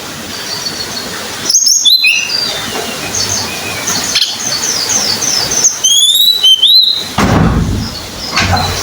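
Tledekan gunung songbird singing: runs of quick high chirps broken by loud, rising whistled notes about a second and a half in and again around six seconds. A low rustling noise comes in near the end.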